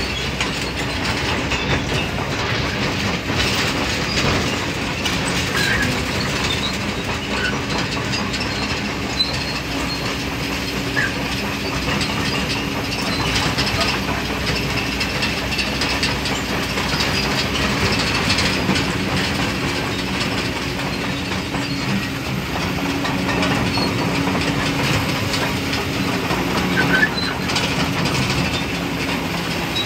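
Excavator's diesel engine running steadily, its low hum swelling at times under load, with scattered small metallic clinks.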